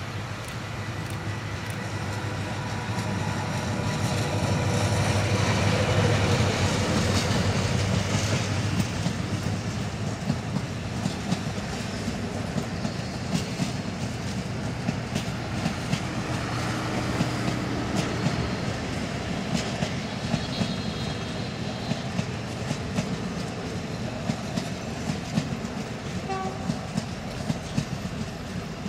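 A metre-gauge 2900-series diesel locomotive passes close by, its engine drone building to a peak about six seconds in. Then the intercity coaches roll past with a steady rumble and a regular clickety-clack of wheels over the rail joints.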